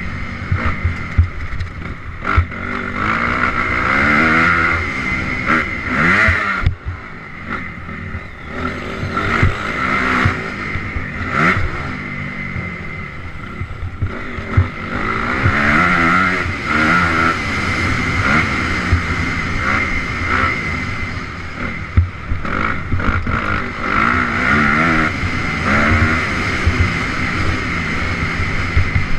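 Honda CRF250R single-cylinder four-stroke dirt bike engine revving hard, its pitch climbing and dropping again and again as the throttle opens and closes, with scattered knocks and clatter throughout.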